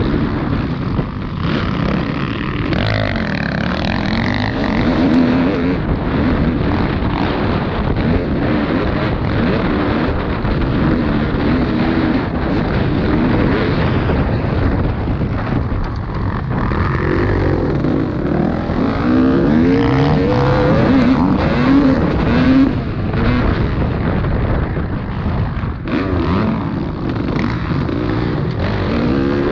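Motocross bikes racing on a dirt track, their engines revving with pitch rising and falling as they accelerate and shift.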